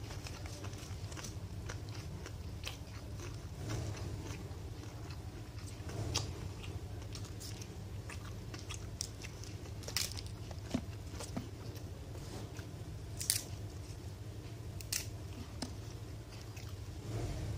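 Close-up eating sounds: chewing and biting into crisp food, with irregular sharp crunches and clicks, a few louder ones standing out, over a steady low hum.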